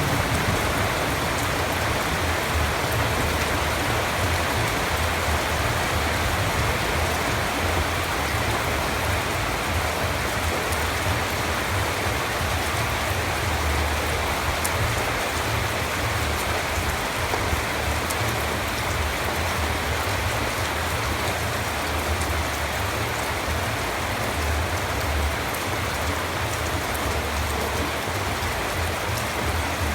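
Steady rain falling, an even hiss with a low rumble beneath and the odd drop tick standing out.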